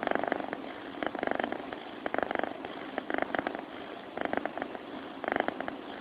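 Cat snoring in its sleep, recorded close up: a raspy, fluttering rattle with each breath, about one a second.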